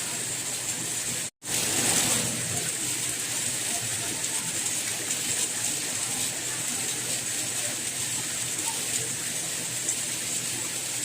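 Steady rain, an even hiss of falling water. It cuts out to silence for an instant about a second in, then resumes.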